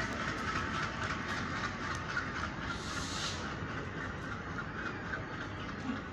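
Train running along the track: a steady rumble of wheels on rails with faint clicking, and a brief hiss about three seconds in.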